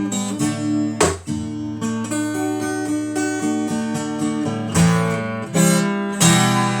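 Acoustic guitar strummed and picked in an instrumental passage, with chords struck sharply about a second in and again several times near the end, ringing between strokes.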